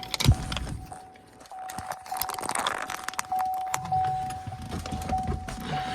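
Keys and small hard objects jangling and clicking inside a just-parked vehicle, over a steady high electronic tone from the vehicle that keeps sounding with small breaks.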